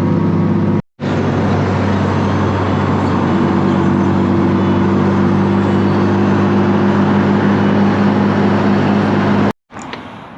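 Car driving, heard from inside the cabin: a steady engine drone over road noise. It drops out abruptly just under a second in. Near the end it cuts off again, leaving only faint background with a few light clicks.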